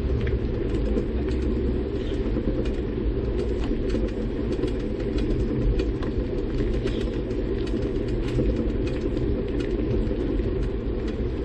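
Steady low rumble of wind buffeting the microphone and tyres rolling while riding a bicycle, with scattered light clicks and rattles.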